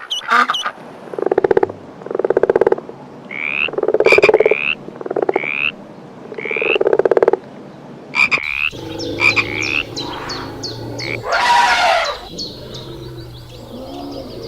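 Frogs croaking: a series of loud, rattling, pulsed croaks about a second apart, with thin slurred whistling notes between them. Partway through the sound changes to rapid high chirps with one loud rasping burst.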